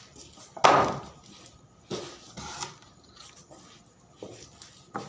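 A few sharp knocks and clatters of hard objects being handled, the loudest a little after half a second in.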